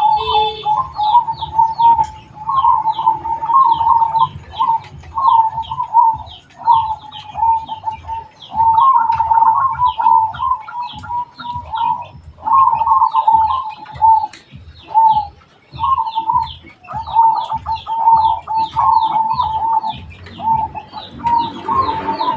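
Zebra dove (perkutut) cooing in a string of rolling, repeated phrases, with short pauses between them. A fast series of high, short chirps runs over the cooing.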